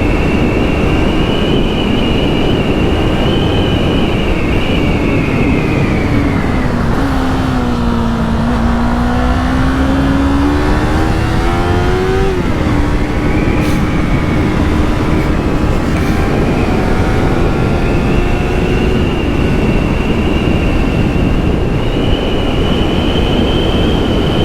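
Yamaha MT-03's parallel-twin engine with its stock exhaust, heard on the move over heavy wind rush. A steady high engine note eases off about six seconds in. The revs then climb for about four seconds and drop sharply at an upshift around twelve seconds in, before settling back to a steady cruise.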